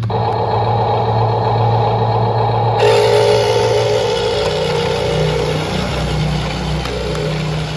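Steady engine-like motor running, with a low hum under it. The sound changes abruptly about three seconds in, as at a cut between clips.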